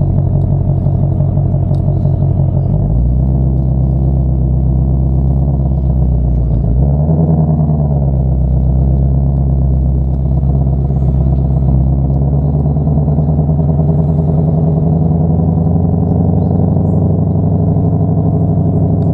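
Ford Mustang Shelby GT500's V8 idling steadily, with one short rev about seven seconds in.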